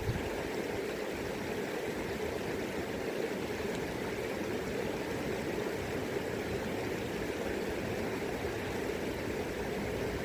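River current rushing steadily, an even wash of water noise.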